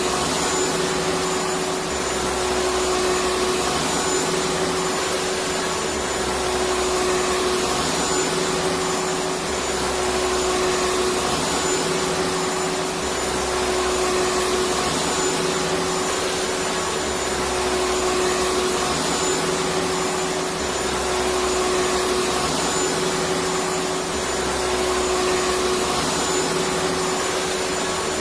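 Electric vacuum cleaner running steadily: an even rushing noise with a constant hum, and a low throb that comes and goes about every two seconds.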